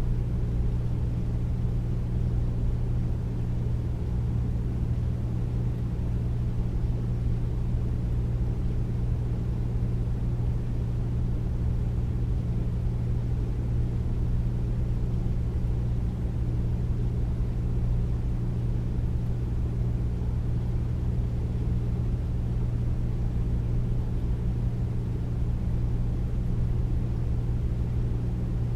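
Air conditioner running steadily: a deep, even hum over low rushing noise, unchanging throughout.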